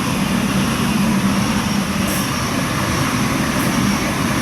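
8-car Oscar (H-set) double-deck electric multiple unit running into the platform: a loud, steady rumble of wheels and running gear with a steady hum from the motors.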